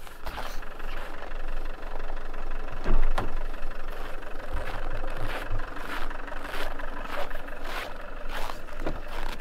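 Car engine idling in severe cold, with footsteps crunching over hard-packed snow as someone walks up to it.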